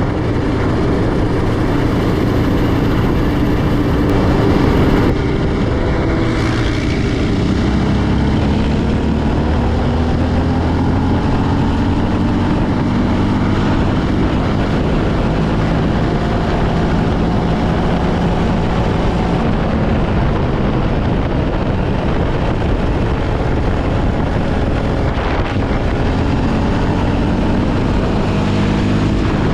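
Yamaha Raptor 700R ATV's single-cylinder four-stroke engine running under way, its pitch rising and falling again and again as it accelerates and shifts, with wind noise on the microphone.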